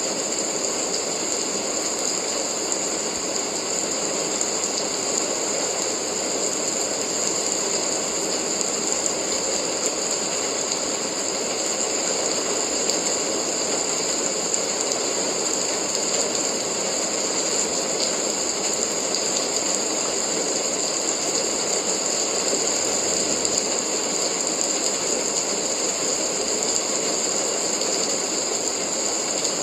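Steady rain, a dense, unbroken patter of drops with a hissy high edge, even throughout.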